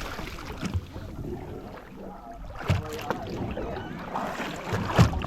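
Wind on the microphone aboard a small fishing boat, with a few sharp knocks on the boat, the loudest near the end, and faint voices in the background.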